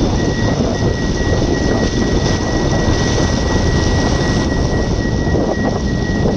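Steady loud rumble and rush of a moving vehicle with wind, with a thin high tone running through it in long dashes.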